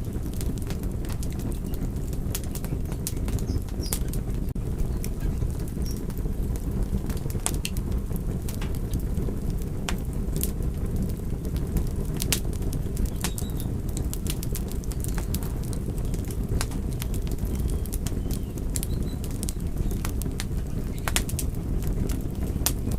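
Wood fire burning: a steady low rush of flame with frequent irregular sharp crackles and pops.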